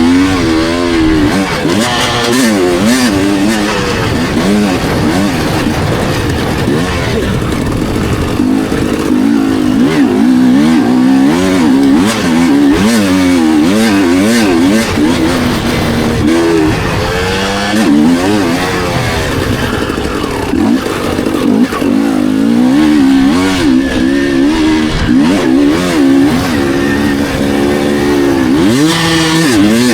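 Dirt bike engine being ridden hard round a motocross track, its pitch rising and falling over and over as the rider opens and shuts the throttle through the corners and jumps.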